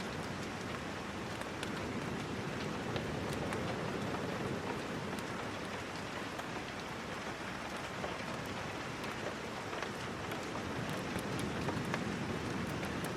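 Steady rain falling, with scattered sharp little ticks throughout.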